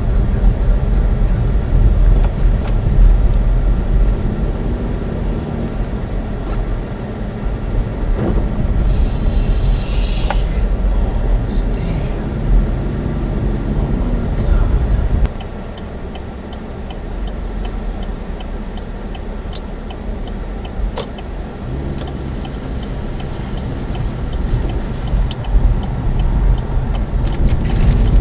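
Engine and road rumble heard inside a Chevy Spark's cabin as it drives on snowy roads, heavy for the first half and dropping off sharply about fifteen seconds in, with a brief hiss a little before that.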